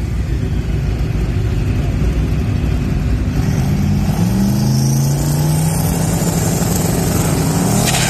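Car engine running with a low rumble. About three and a half seconds in, a steady engine note comes up and climbs a little in pitch.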